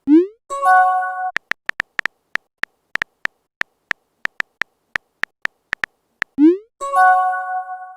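Phone messaging sound effects: a run of quick keyboard tap clicks, broken twice by a rising swoosh followed by a ringing chime that fades out. The swoosh and chime come at the very start and again near the end.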